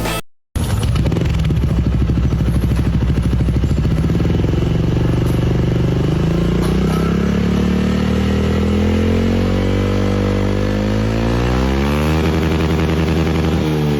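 Motorcycle engine running through a KRACE racing-style aftermarket exhaust, starting after a brief gap: revs climb slowly, then more quickly, drop back about 12 seconds in and rise again near the end.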